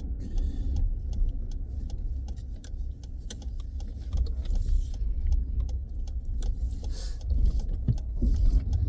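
Steady low road and engine rumble from inside a moving vehicle's cabin, with scattered small rattles and ticks.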